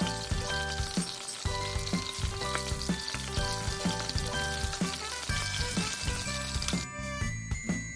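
Flour-coated pork ribs shallow-frying in a pan of oil, a steady sizzle that stops about a second before the end. Background music with a steady beat plays throughout.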